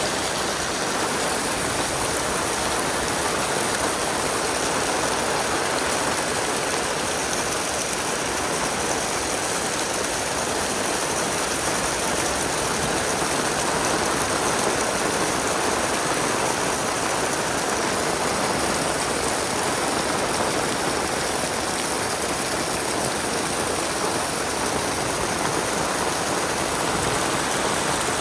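Heavy rain pouring down in a steady, dense hiss, with no single drops standing out.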